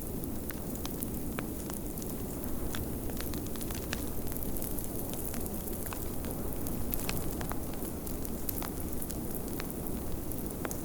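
Wood fire crackling in a fireplace, with sharp irregular pops and snaps over a steady low rumble of storm wind.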